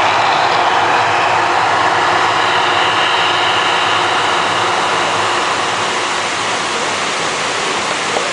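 Steady roaring rumble of an outdoor volcano attraction's show effects, easing off slightly toward the end.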